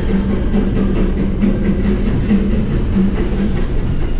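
Disneyland Railroad train running along the track, with a steady rumble, clicking wheels and a low, irregularly pulsing tone.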